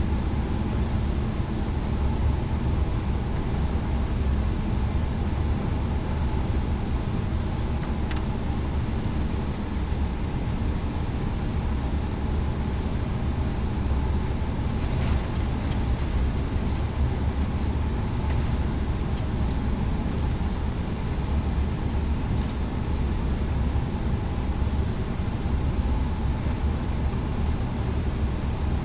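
Airbus A320neo jet engines idling on the ground: a steady low rumble, with a few faint ticks.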